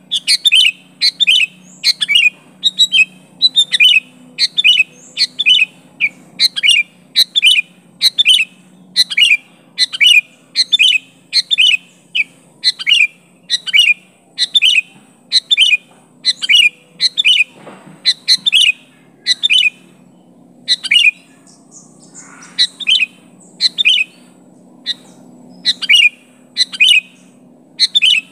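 Sooty-headed bulbul (kutilang) giving short, sharp chirping calls, repeated about once or twice a second with a brief pause around twenty seconds in: the loud calling used to challenge a rival.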